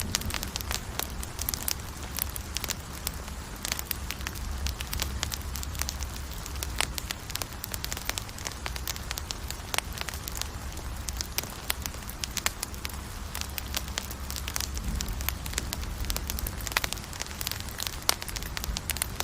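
Campfire crackling and popping steadily, a dense run of irregular small snaps over a soft hiss, with a low rumble underneath.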